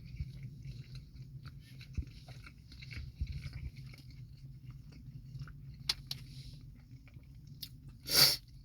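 A person chewing a mouthful of Popeyes fried chicken sandwich, with small crunches and mouth clicks over a low steady hum. A short, loud rush of noise comes near the end.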